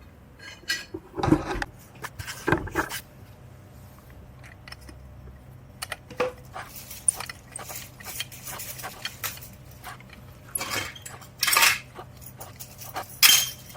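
Metal clinks and clanks, irregular and scattered, of motorcycle exhaust header pipes and their bolts being handled and fitted loosely, with louder knocks about a second in and a cluster near the end.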